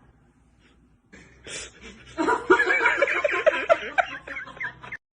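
High-pitched laughter in quick, repeated bursts, starting about two seconds in and stopping just before the end.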